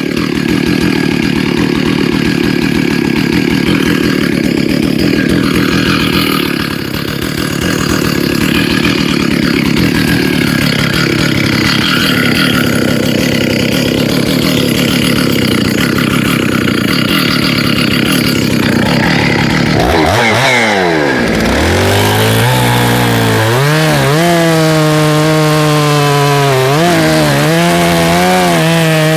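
Stihl 066 Magnum two-stroke chainsaw at full throttle, cutting through wood. About twenty seconds in the engine note drops sharply, then settles into a steadier, lower running note that wavers in pitch.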